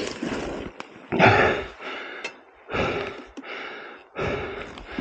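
Heavy breathing close to the microphone, one loud breath about every second and a half.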